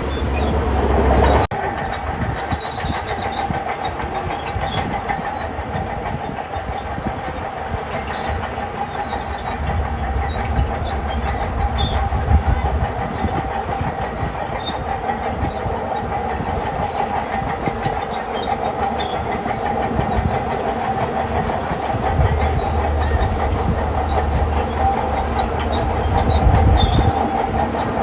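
Shantui crawler bulldozer working: its diesel engine runs steadily under load while the steel tracks clank. The sound changes abruptly about a second and a half in.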